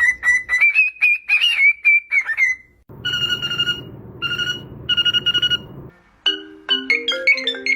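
A parrot whistling a warbling note over a run of quick taps, then three bursts of a steady beeping tone. A music melody comes in about six seconds in.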